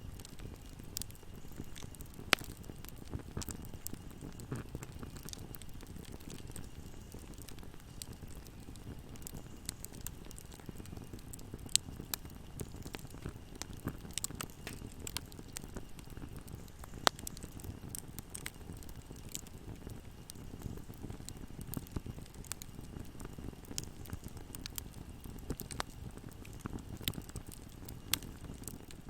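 Wood fire burning in a fireplace: a low steady rumble of flames with frequent small irregular crackles and a few louder sharp pops.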